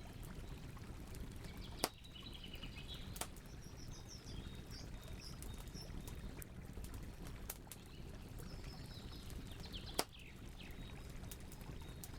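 Wood campfire crackling steadily, with two sharp pops about two seconds in and near the end. Birds chirp in the background, with a faint steady chirring of crickets.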